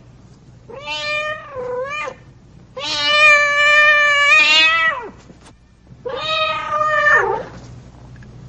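Domestic cat meowing four times, one call drawn out for about two seconds in the middle.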